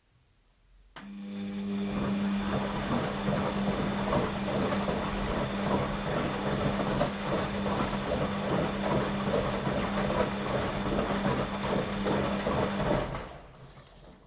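Washing machine running: a steady mechanical hum with busy rattling starts abruptly about a second in, holds at an even level, and dies away near the end.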